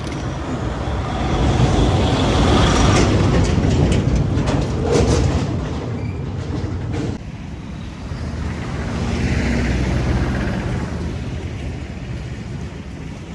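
Heavy vehicle engine running with a low rumble and rattling clatter. It grows louder a couple of seconds in, drops suddenly about seven seconds in, then swells and fades again.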